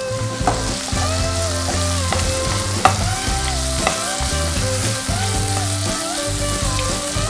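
Moong dal, onion and chillies frying and sizzling in a non-stick kadai while a wooden spatula stirs them, knocking sharply on the pan a few times. Soft background music with a melody and bass runs underneath.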